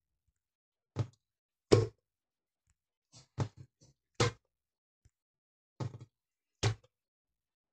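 Black slime being pressed and squished by hand, giving sharp popping clicks that come roughly in pairs every couple of seconds, with silence between.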